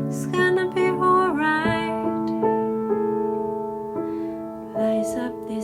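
A woman sings over soft, held piano or electric-piano chords. Her voice drops out after about a second and a half, leaving the keyboard notes sustaining, and returns briefly near the end.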